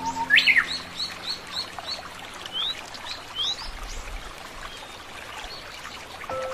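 Birds singing: a loud sweeping call, then a quick run of short chirps about three a second, then two rising whistled notes, over a steady background hiss.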